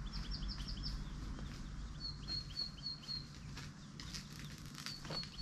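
Wild birds calling: quick runs of four or five short, high notes, one run at the start, another about two seconds in and a third near the end, over a low steady rumble with a few faint clicks.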